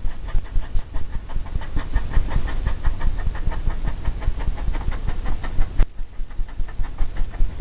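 A wide bristle brush tapping rapidly and evenly against a stretched canvas, several dull taps a second with a brief let-up near the end, blending wet oil paint into a misty layer.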